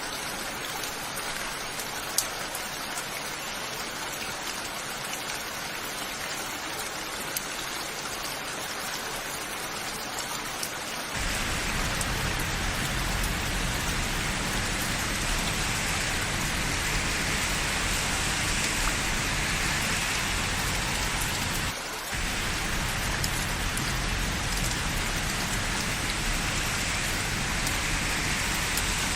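Steady rain falling. About eleven seconds in it abruptly becomes louder and fuller, with a low rumble underneath, and it drops out for a split second about twenty-two seconds in.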